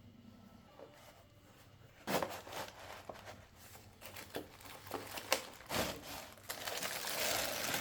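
Packaging being handled and opened: crinkling and rustling with short knocks and clicks, starting about two seconds in and thickening into a steadier crinkle near the end.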